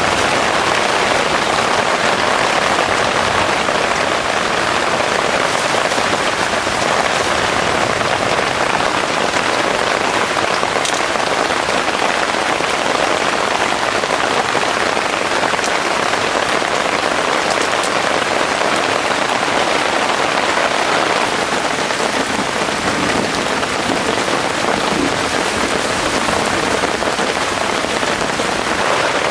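Heavy rain falling steadily, a dense even hiss of drops on the surfaces around.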